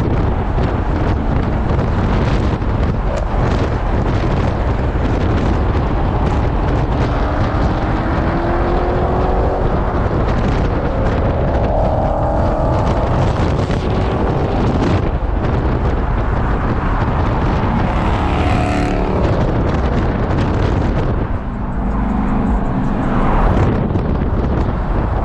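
Muscle car engines running loud, with a deep rumble and the revs rising and falling in pitch several times through the middle.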